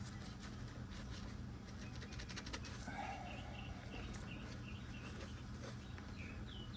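Birds chirping: a run of short, high chirps starting about halfway through, over a low steady hum and a few light clicks.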